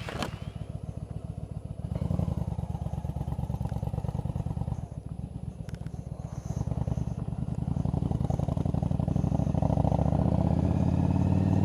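Yamaha V-Star 1100 Custom's air-cooled V-twin running. It grows louder about two seconds in, eases off in the middle, then builds again toward the end before falling away.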